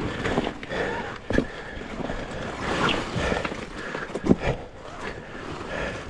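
Beta hard enduro dirt bike's engine running at low revs while the bike picks its way over rough ground, with sharp knocks of the bike against rock, about 1.5 and 4.5 seconds in.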